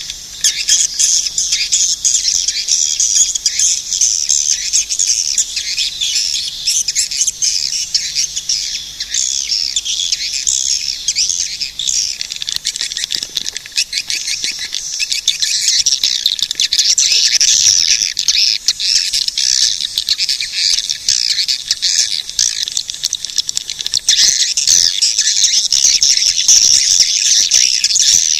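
Swiftlets twittering: a dense, continuous chatter of rapid high chirps.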